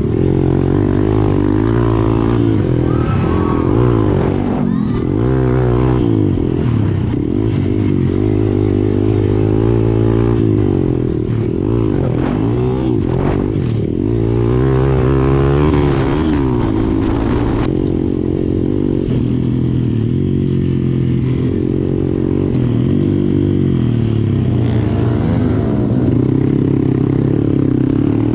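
Several dirt bike engines revving at once, their pitch rising and falling over and over as the bikes accelerate and shift.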